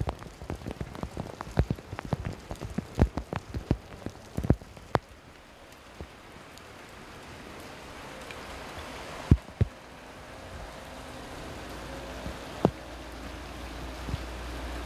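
Heavy rain, with big drops striking a nearby surface in quick, sharp hits for the first five seconds or so. It then thins to a steady hiss with only a few single drops, while a low rumble slowly builds toward the end.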